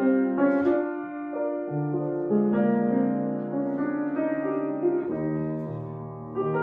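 Jazz piano playing chords that ring and fade, changing every second or so.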